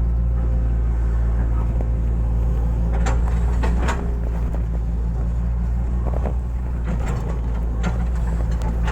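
Hitachi excavator's diesel engine running steadily under work, with several short knocks about three to four seconds in and a few more later.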